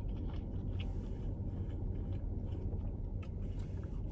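A person chewing a mouthful of Big Mac close to the microphone, with small soft wet mouth clicks, and biting into the burger again near the end. A steady low hum runs underneath.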